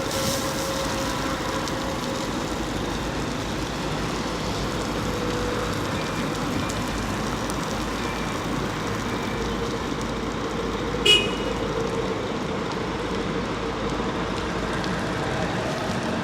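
Fire truck engine running steadily, with a brief sharp sound about eleven seconds in.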